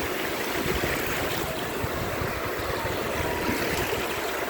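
Small waves breaking and washing up the shore: a steady rushing surf.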